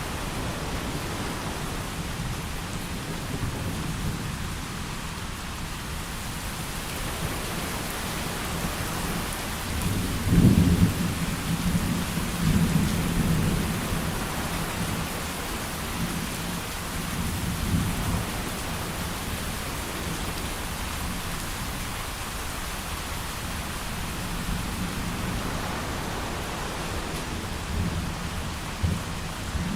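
Thunderstorm: steady heavy rain with low rolling thunder, the loudest roll about a third of the way in, followed by smaller rumbles.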